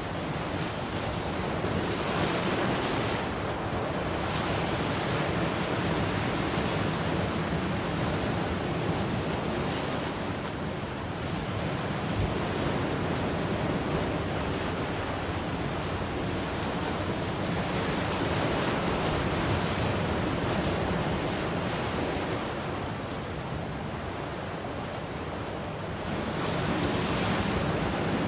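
Ocean waves washing ashore: a continuous rush of surf that swells and eases every few seconds, with some wind noise on the microphone.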